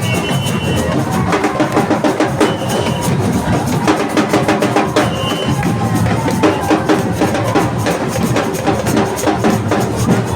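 Samba parade music: a percussion section of bass drums, snares and small hand percussion playing a fast, even beat, with a melody line over it.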